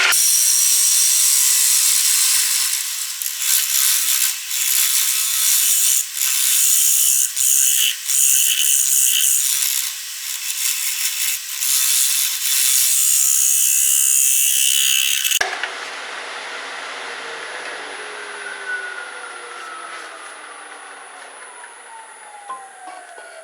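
A hand-held pad rubbing hard against a spalted oak bowl spinning on a Grizzly wood lathe, a loud hiss broken by a few brief lifts. About fifteen seconds in the rubbing stops abruptly and the lathe winds down, its whine falling in pitch as it coasts to a stop.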